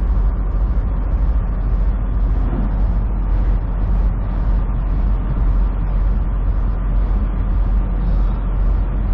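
Semi truck cab interior at highway speed: a steady low engine and road rumble, with a faint hiss pulsing about twice a second.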